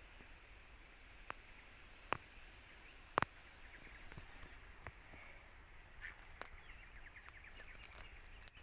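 A few scattered sharp snaps and clicks over faint outdoor ambience, the loudest about two and three seconds in. From about six seconds a rapid, high chattering joins.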